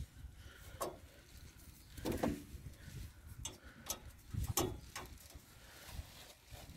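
Scattered knocks and clicks, about half a dozen, the strongest about two and four and a half seconds in, from parts of a washing machine being handled and taken apart.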